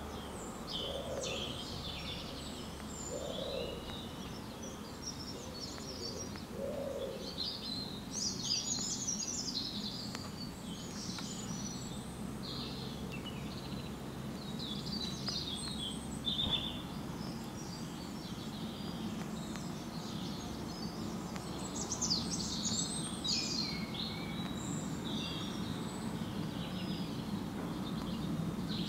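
Songbirds chirping and trilling on and off over a steady low background rumble, with three short low calls in the first seven seconds.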